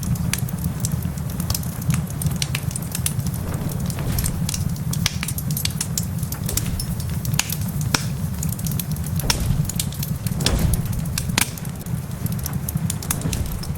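Wood fire crackling with many irregular sharp pops, over the steady hiss of rain and a steady low rumble.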